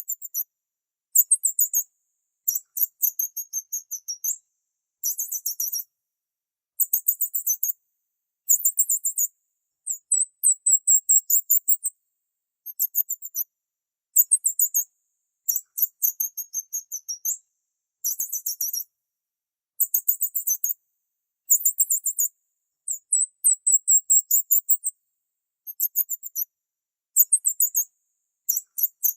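Small bird chirping in very high-pitched, rapid trilled bursts, each about a second long, with short pauses between them.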